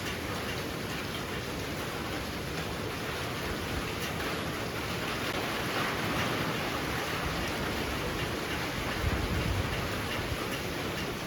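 Heavy rain falling steadily as a dense, even hiss, growing a little heavier past the middle.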